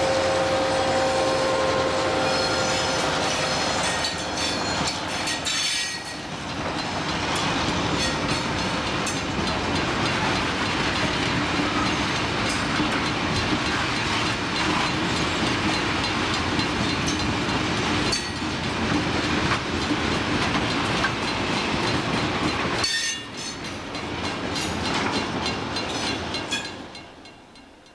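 Loaded freight train's bogie tank wagons rolling past at speed, a steady rumble with wheels clicking over rail joints. At the start the trailing 49 class diesel locomotive's engine drone fades out as it goes by, and near the end the train passes and its sound dies away.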